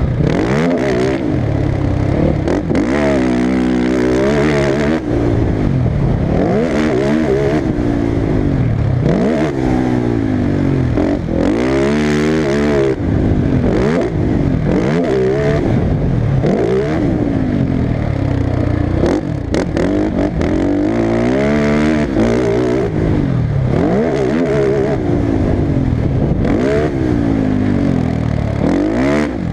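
Motocross bike engine revving hard and easing off over and over, the pitch climbing and falling every second or two.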